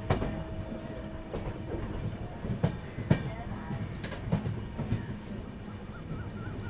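The 16236 Tuticorin Express running, its coach's wheels clicking over rail joints at uneven intervals over a steady rumble, with two sharp knocks near the middle.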